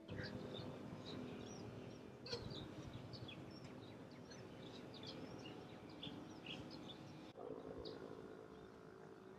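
Faint outdoor ambience: small birds chirping, short high calls scattered throughout, over a steady low hum.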